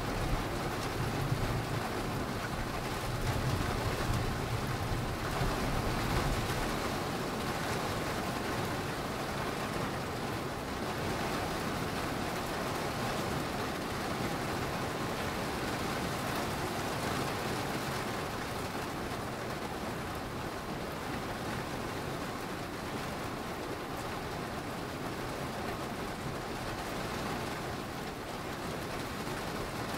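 Steady heavy rain falling, with the low rumble of a thunder roll dying away over the first few seconds.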